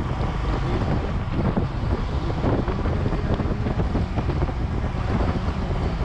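Wind rushing over the microphone while riding a Royal Enfield Himalayan motorcycle, with the bike's single-cylinder engine running underneath.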